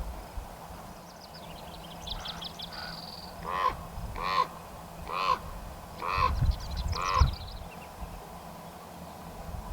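Common ravens giving five harsh calls about a second apart, each with a rise and fall in pitch, after a burst of higher, thin twittering.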